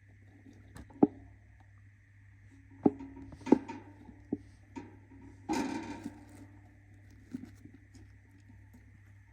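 A few light knocks and taps on wood and a short rustle just past halfway: a budgie moving about in its cage or nest box. A steady faint hum runs underneath.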